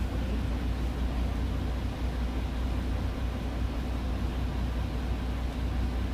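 Route bus engine running steadily, heard from on board: a constant low drone with an even rush of road and cabin noise over it.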